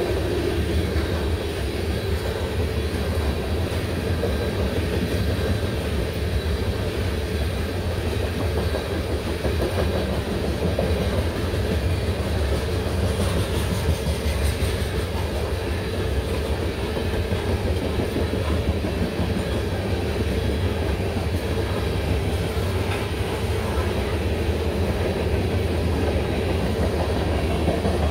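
Covered hopper cars of a freight train rolling past, a steady rumble of steel wheels on the rails.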